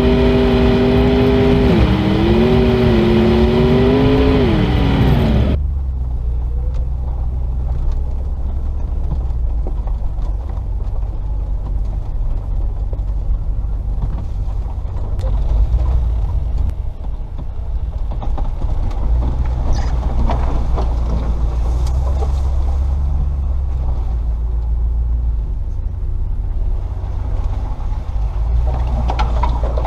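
Range Rover P38's 4.0 V8 engine pulling under load, its note stepping up and down and then falling away. About five seconds in it switches abruptly to a low, steady rumble as the vehicle drives on.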